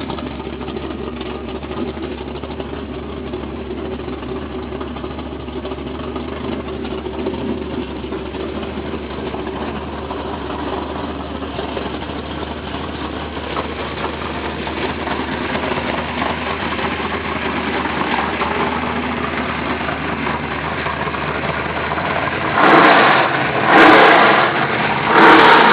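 Plymouth Duster's engine idling steadily, then revved in three short blips near the end.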